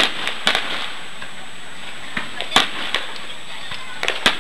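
Aerial firework shells bursting overhead: a run of about nine sharp bangs at irregular intervals, some in quick pairs, over a steady background hiss.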